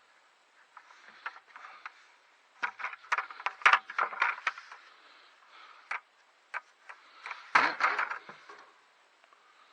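Digging in garden soil by hand while harvesting potatoes: crunching scrapes and small knocks of the tool and potatoes, in two busy clusters about three seconds in and again at about seven and a half seconds.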